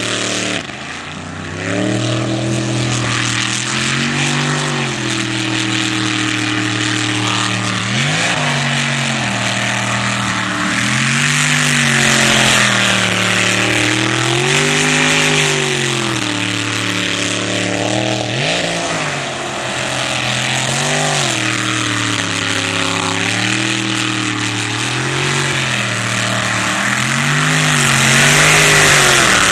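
Jet sprint boat engine revving up and dropping back over and over, a new swell every two or three seconds, as the boat runs the course, over a steady rushing hiss.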